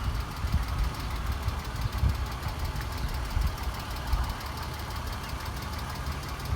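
BMW Z3 3.0's M54 straight-six engine idling with a steady low rumble, partly buffeted by wind on the microphone.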